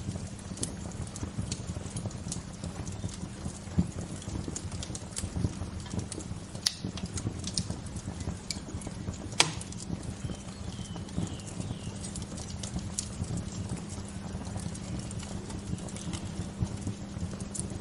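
Wood fire crackling: irregular sharp pops and snaps, the loudest about nine seconds in, over a steady low rumble. A faint bird chirp comes in a little after ten seconds.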